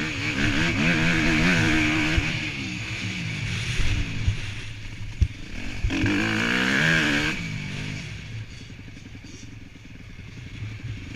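Motocross bike engine revving up and down as the bike rides past, loudest in the first two seconds and again about six seconds in, then fading away.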